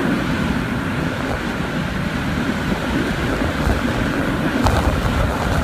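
Hurricane-force eyewall winds of a near-Category 5 hurricane blowing hard and buffeting the microphone with a deep, steady rumble; the gusts get a little stronger near the end.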